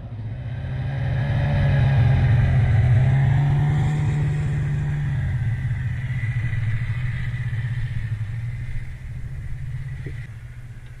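A small vehicle engine running steadily, growing louder over the first two to three seconds, then slowly fading.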